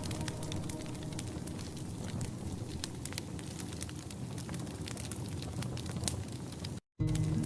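Wood fire in a cast iron fireplace crackling, with many sharp pops over a steady hiss. The sound cuts out for a moment near the end.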